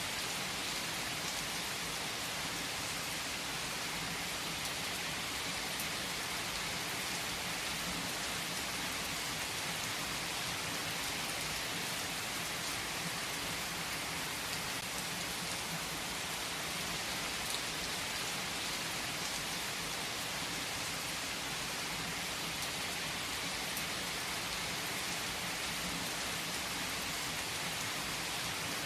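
Steady rain falling on surfaces, an even hiss with scattered drop ticks.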